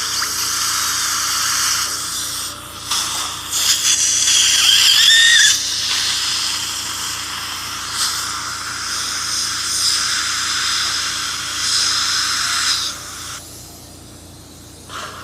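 Dental drill running in the mouth with a steady high hiss, and a brief wavering squeal about four to five seconds in. It stops about thirteen seconds in.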